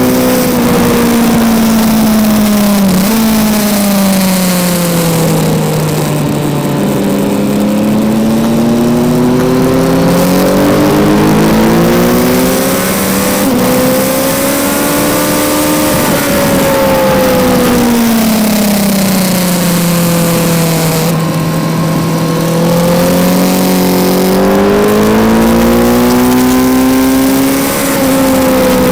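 Kawasaki Z900's 948 cc inline-four engine heard onboard, its pitch rising and falling in slow, smooth sweeps as the rider accelerates and eases off, over a steady rush of wind noise.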